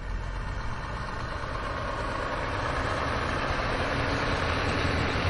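Wood fire crackling in a fireplace: a dense, steady crackle over a low rumble, growing slightly louder.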